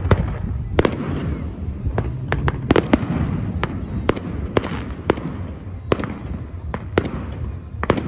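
Fireworks display: about a dozen sharp bangs and cracks at irregular intervals over a steady low rumble.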